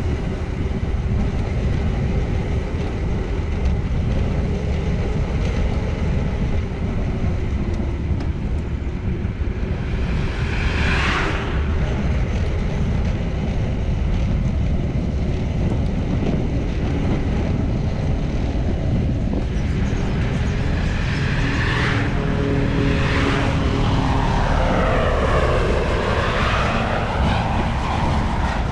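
Steady wind rumble on the microphone of a moving bicycle, with motor traffic passing by: one vehicle about eleven seconds in and a few more close together near the end.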